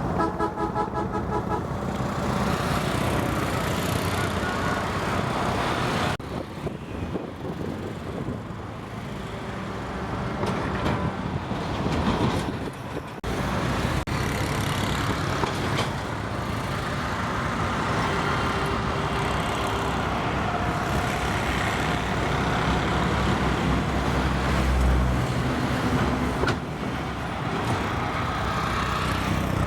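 Diesel engine of a river boat running steadily under a wash of water and wind noise. A short horn toot sounds at the very start.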